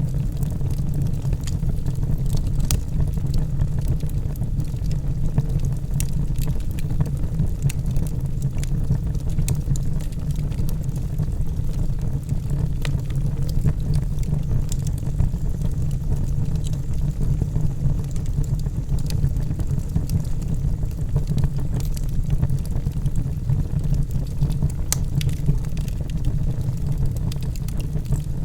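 Log fire burning in a fireplace: a steady low rumble from the flames, with frequent small, irregular crackles and pops from the burning logs.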